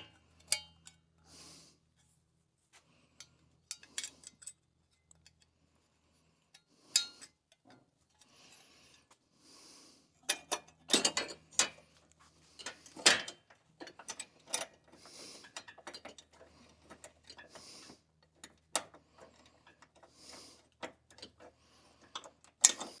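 Hand-tool work on truck bumper parts: scattered clicks and knocks of metal and plastic, with several short rasping spells like a ratchet being worked, over a faint steady low hum.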